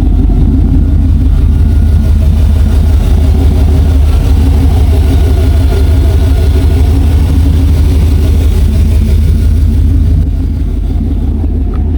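A 1989 Chevrolet pickup's gasoline engine running steadily, a little quieter about ten seconds in.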